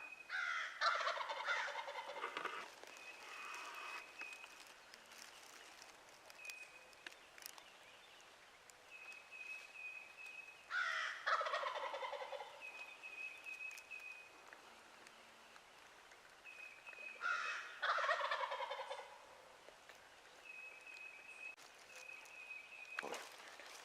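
Wild turkey gobbler gobbling three times, at the start, about eleven seconds in and about seventeen seconds in, each a rattling call that falls in pitch. A thin high note comes and goes between the gobbles.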